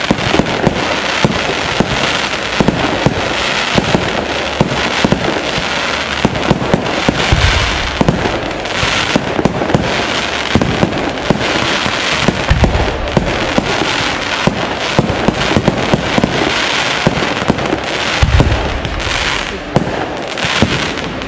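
Fireworks display: shells bursting in quick succession with many rapid pops, and a few deeper booms spread through.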